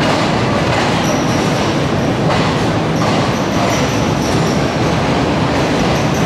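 Passenger train running on the rails: a steady loud rumble with short, high-pitched wheel squeals that come and go from about a second in.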